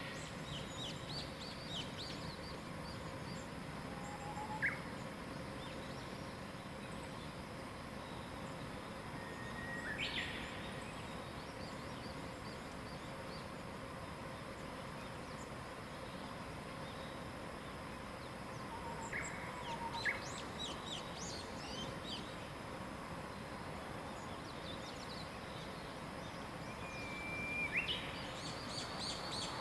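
Wild songbirds calling and singing now and then over a steady background hiss of mountain-morning air, with short whistled notes and chirps scattered through, and a quick run of high repeated notes near the end.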